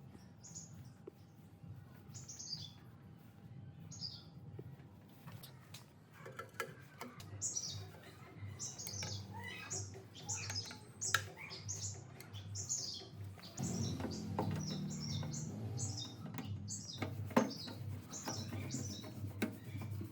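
Small birds chirping in short, high, falling notes: a few at first, then many in quick succession from about seven seconds in. Underneath are a low pulsing hum and scattered sharp clicks and taps.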